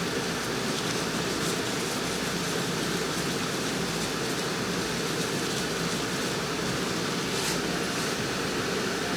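Steady, even whooshing hum of background room noise, like air-handling, with a faint rustle about seven seconds in.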